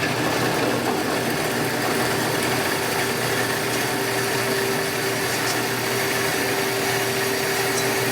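Johnson band saw running steadily while cutting through a piece of steel tube, a constant machine hum with one steady tone.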